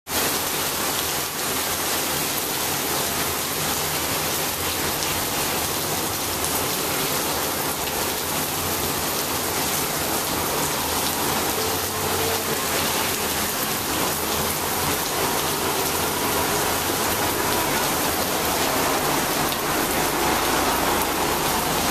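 Heavy summer rain pouring down onto the wet sidewalk and street, a steady, even hiss.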